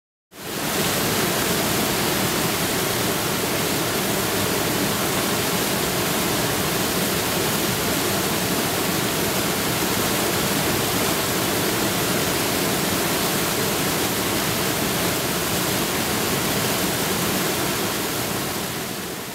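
Waterfall pouring, a steady full rush of water swollen by a week of rain, cutting in just after the start and fading out near the end.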